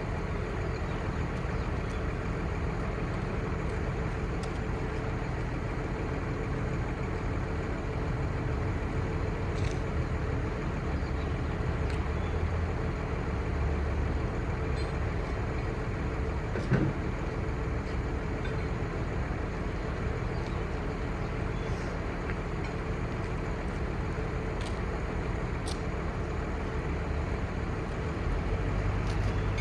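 The truck's 5.9L Cummins six-cylinder turbo diesel running steadily, with a single sharp click about seventeen seconds in and the low rumble growing a little near the end.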